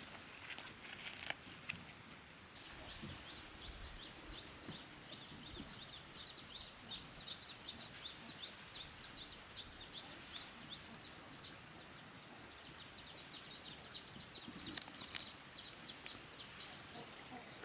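Birds chirping rapidly, a steady run of short high chirps about three a second, with a few sharp knocks near the start and near the end.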